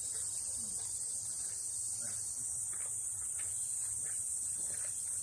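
Steady high-pitched insect chorus that runs without a break, with faint distant voices underneath.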